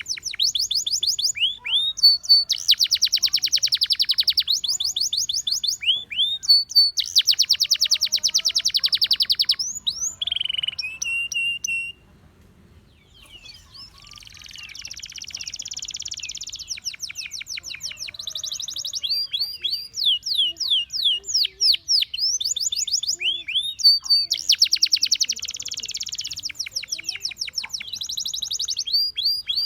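Gloster canary singing a long song of fast rolling trills and quick sweeping whistled notes, pausing briefly about twelve seconds in, then starting up again.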